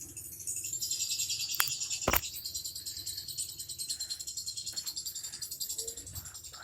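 Insects trilling in a high, rapidly pulsing chorus, with two sharp clicks about one and a half and two seconds in.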